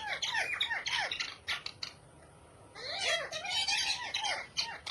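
Pet parrot squawking in two runs of short, rapid calls that rise and fall in pitch, with a pause of about a second in between.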